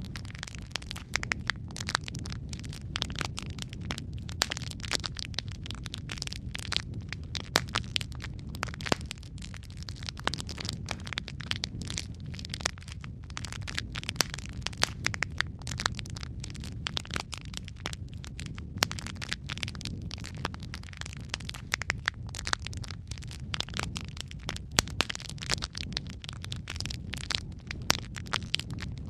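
Wood fire burning in a fireplace, crackling and popping constantly with sharp irregular snaps over a steady low rumble of the flames.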